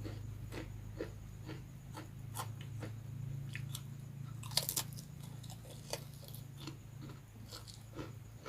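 Close-miked chewing and crunching of crispy rambak skin crackers and fried noodles: sharp crunches come about every half second, with a louder cluster of bites about four and a half seconds in.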